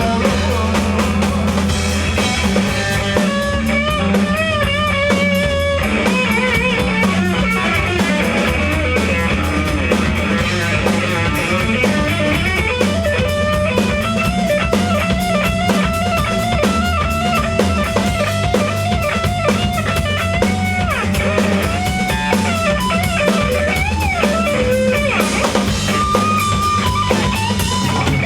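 Rock band playing live: a lead guitar line with bending, wavering notes over drum kit and a steady low bass.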